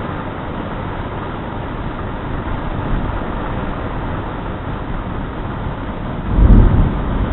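Steady rush of wind and rain from a thunderstorm, with a loud, low clap of thunder near the end.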